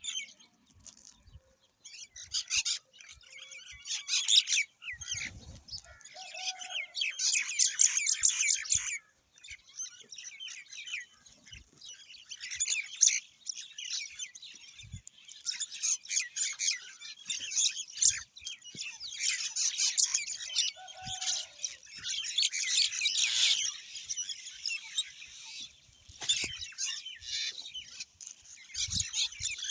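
Many small birds chirping together in a dense morning chorus of rapid, high chirps, with a couple of brief lulls.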